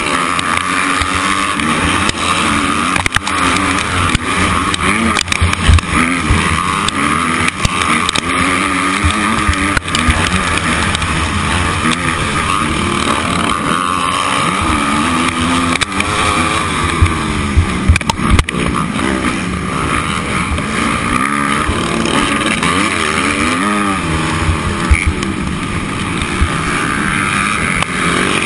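Motocross motorcycle engine revving up and falling back over and over as it is ridden hard, with steady noise and scattered sharp knocks throughout.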